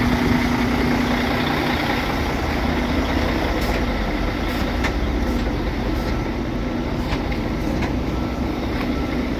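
Semi truck's diesel engine idling steadily, with a few faint clicks over it.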